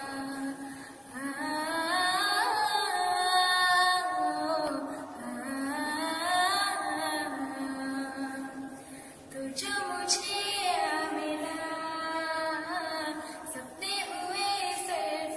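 Female voice singing a melodic song, holding long notes with gliding, ornamented turns and pausing briefly between phrases.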